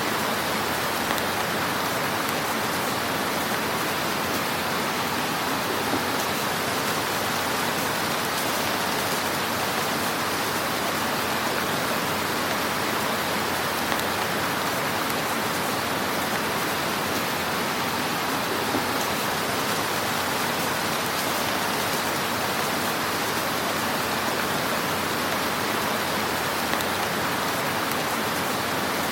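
Wood fire crackling in a fireplace: a steady, dense hiss and crackle, with a few slightly louder pops.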